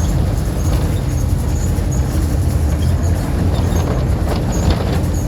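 Engine of a VW 17-230 OD city bus with a Marcopolo Torino body, running steadily while under way, heard from inside the bus as a loud low rumble with light scattered rattles.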